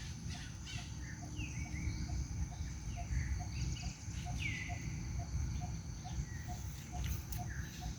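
Bird calls with short falling chirps over a steady high insect drone, a short low note repeating about twice a second, and a steady low rumble.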